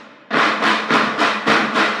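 School band drums playing a steady beat of about four strokes a second, coming in after a brief break just after the start.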